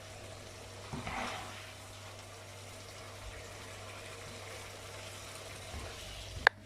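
Curry being dished out of the pan: a steady low hiss with a louder wet, liquid stretch about a second in, and one sharp click near the end.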